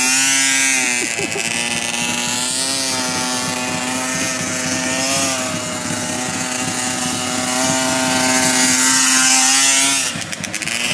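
Small motorcycle engine running at high, nearly constant revs, its pitch wavering only slightly, then dropping away about ten seconds in.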